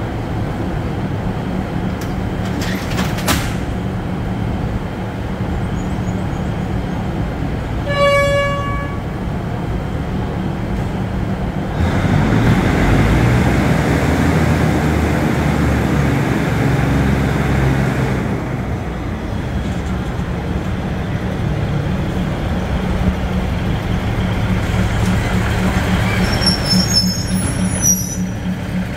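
Diesel train's engine running steadily, with a short horn toot about eight seconds in. From about twelve seconds a rush of compressed air as the emergency brake is applied, easing off over several seconds, and a few high squeaks near the end.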